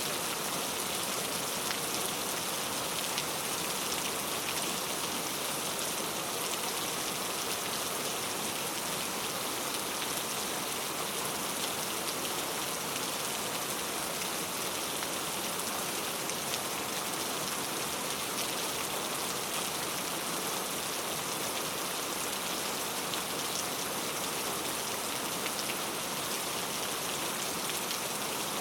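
Heavy rain pattering on mango tree leaves: a steady, dense hiss of many drops.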